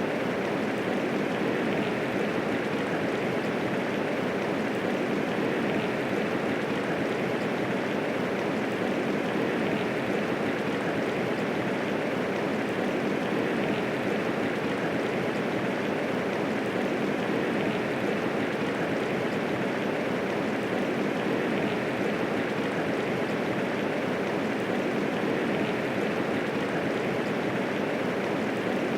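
Medium rainfall falling steadily, with no thunder: an even, unbroken hiss of many drops.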